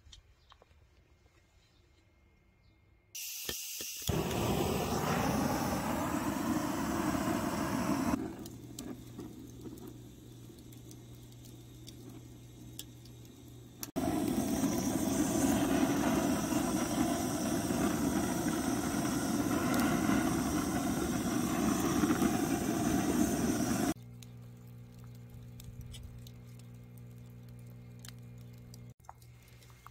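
A loud, steady rushing hiss in two long stretches, each starting and stopping abruptly, with a quieter low steady hum in between and after.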